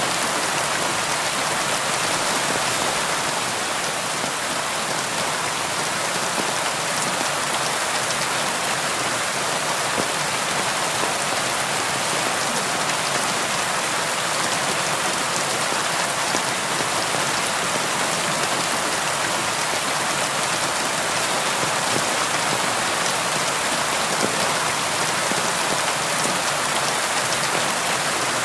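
Steady rain falling and pattering on a window, an even hiss with scattered drop ticks.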